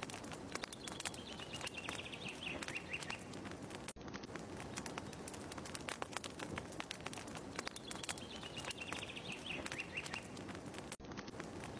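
Fireplace crackling with dense sharp pops and snaps, with a bird's short falling call twice, about seven seconds apart. The sound cuts out for an instant twice, where the looped ambience track restarts.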